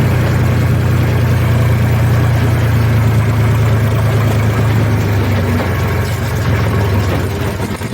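HMT tractor's diesel engine running steadily with a low, even drone.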